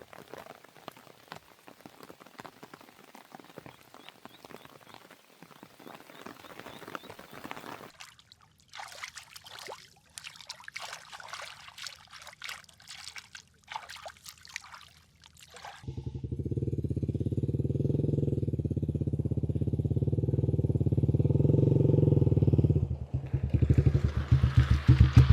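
Soft crackling and rustling. Then, about sixteen seconds in, a small engine starts running loudly and steadily for several seconds, breaking into rapid pulsing near the end.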